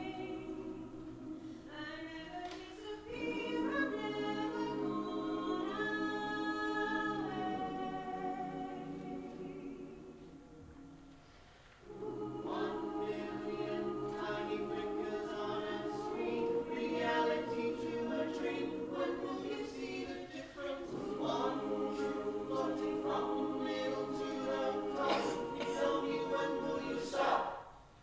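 Choir singing unaccompanied, holding sustained chords in several-part harmony. The chord fades away about ten seconds in, the choir re-enters strongly about two seconds later, and the singing cuts off near the end.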